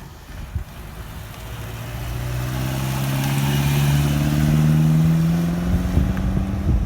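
A car engine passing, its note climbing steadily as it accelerates, loudest a little after the middle.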